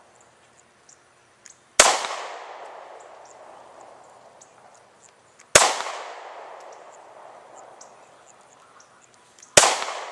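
Three handgun shots about four seconds apart, each a sharp crack followed by a long fading echo.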